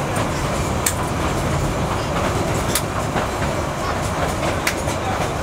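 Matheran Hill Railway narrow-gauge train carriage running, heard from inside: a steady rumble of wheels on track, with a sharp wheel click about every two seconds.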